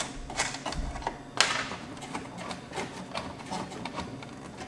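Adjustable wrench working the nut off a receiver's volume-control shaft: a run of irregular light metallic clicks and taps, with one louder click about a second and a half in.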